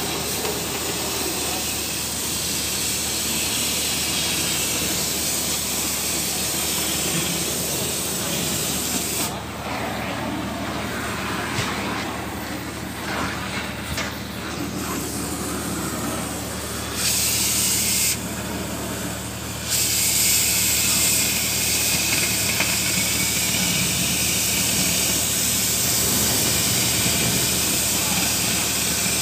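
A pressurized jet hissing, its high hiss dropping out about a third of the way in, returning briefly, then running on louder for the last third, over a steady low hum.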